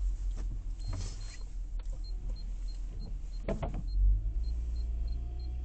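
Steady low engine and road rumble inside a moving car, with a few knocks and, from about two seconds in, an even ticking of about three ticks a second, typical of a turn-signal indicator.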